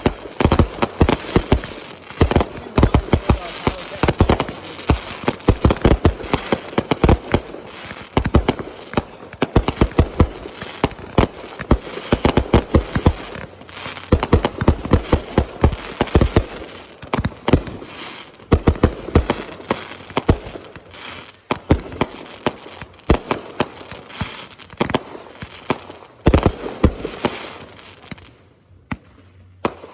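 Fireworks going off in a dense, continuous barrage: sharp bangs several times a second over a steady crackle, thinning out briefly near the end.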